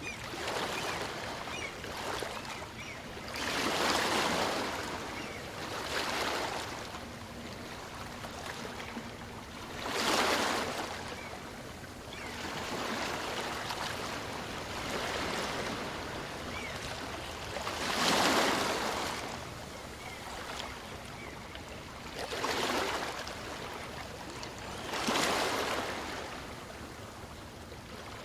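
Small waves on a calm sea breaking and washing ashore, a surge of surf every few seconds over a steady wash, the loudest about ten and eighteen seconds in.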